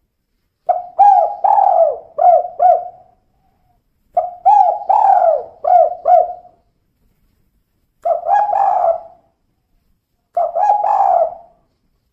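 Spotted dove (tekukur), given as a female, cooing in four phrases. The first two are each a run of four or five quick coos, and the last two are shorter.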